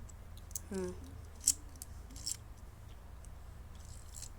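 A few sharp, scattered plastic clicks and clacks from Beyblade spinning tops, the loudest about a second and a half in. Just before it comes a short rising vocal sound.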